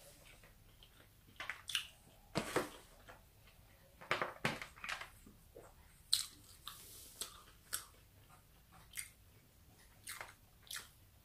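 Close-up chewing of a mouthful of chicken fajita wrap with cheese and salad: irregular short mouth clicks and smacks.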